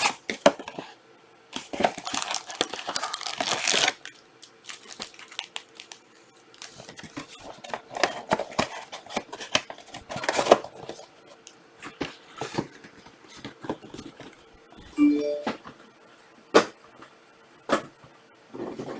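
Plastic wrapping of trading-card boxes and packs being torn and crinkled by hand, with scattered clicks and taps of handling. The longest spell of tearing comes about two seconds in.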